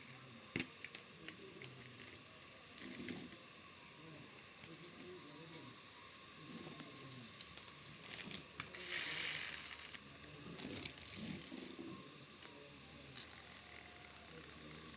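Faint clicking and rustling handling noise, with a louder burst of hiss about nine seconds in.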